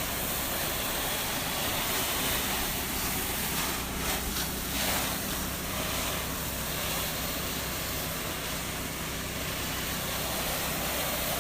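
Pressure-washing rig's engine running steadily under the continuous hiss of water spray, as a soap-and-bleach mold treatment is sprayed onto house siding.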